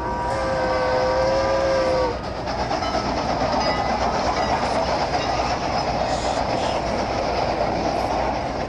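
A train horn sounding for about two seconds, then a train rolling along the rails with a steady rumble.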